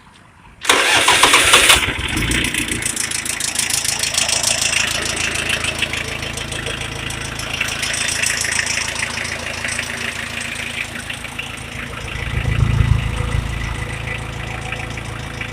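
VST Shakti MT 270 mini tractor's 27 HP four-cylinder diesel engine started on the electric starter: about a second of cranking, then it catches and idles steadily, with a brief rise in revs about twelve seconds in.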